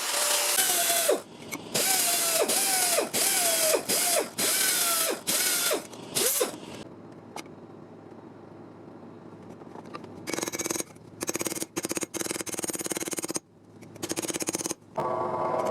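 Handheld power tool run in about eight short bursts, its pitch dropping as each one ends. After a pause it runs in several more short bursts, on sheet-metal work on a car floor panel.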